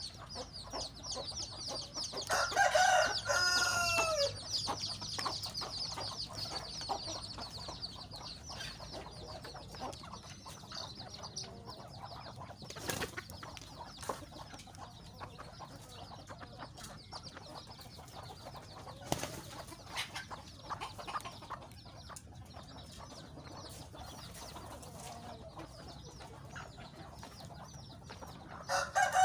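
Chickens clucking, with a rooster crowing once a few seconds in. Dense high-pitched chirping fills the first several seconds.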